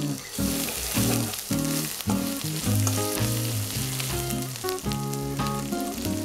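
Grated ginger and whole spices sizzling in hot ghee in a kadai, stirred with a wooden spatula; the sizzle is strongest in the first couple of seconds. Background music with a melody plays under it.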